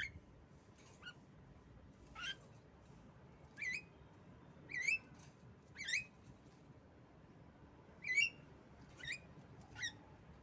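Female Javan myna (jalak kebo) giving short, squeaky rising calls, about nine in all, roughly one a second.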